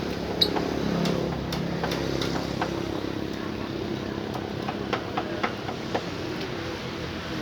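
A motor vehicle's engine running steadily, with scattered light clicks and one short high bird chirp about half a second in.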